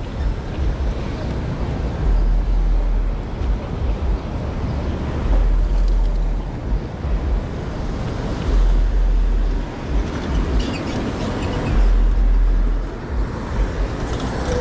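Wind buffeting the microphone of a moving bicycle, with heavy low rumbles that swell about every three seconds over a steady rush of air and road noise.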